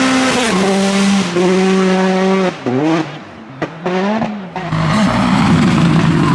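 Rally car engine held at high revs, stepping down in pitch about half a second in as it changes gear. Around three seconds in it goes briefly quieter, with a few short rev blips rising and falling in pitch. It then pulls hard again under a rougher, noisier wash that carries some tyre squeal.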